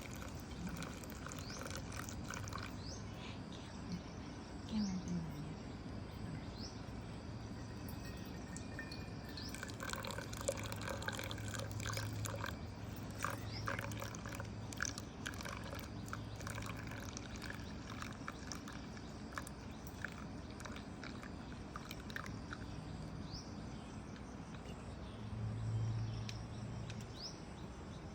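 Hot water being poured and dripping through drip coffee, with many small clicks of drips, short high bird chirps, and a low hum that comes and goes.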